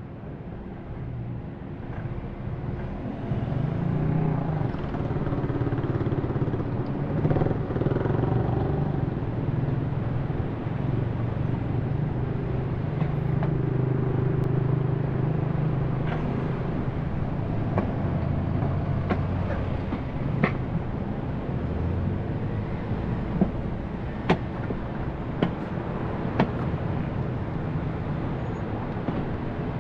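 Car engine and road noise while driving, fading in over the first few seconds. The engine note holds steady with small shifts, and a few sharp clicks or knocks come in the second half.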